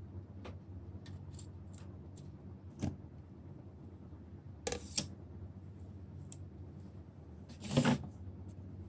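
Small clicks and taps of tools and parts being handled during a phone screen repair, with one louder brief rasp about eight seconds in, over a steady low hum.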